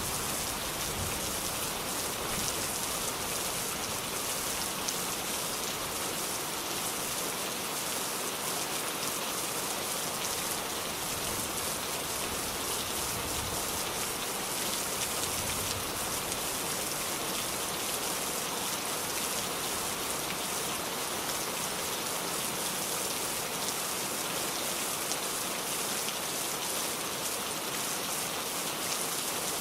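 Steady rain falling, an even hiss of countless drops hitting a surface.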